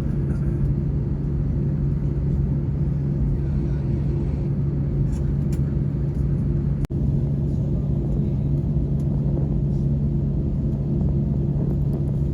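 Cabin noise of a Wizz Air Airbus A320-family jet: a steady low rumble of engines and airflow with a constant hum. A single sharp click with a momentary dropout comes about seven seconds in.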